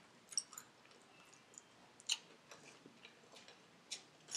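Close-up chewing of fried chicken: quiet, scattered soft clicks and crunches from the mouth, several over a few seconds.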